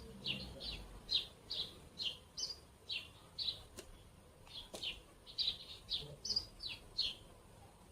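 A bird chirping: a series of short, high chirps, each falling quickly in pitch, about two a second, with a brief pause about halfway through.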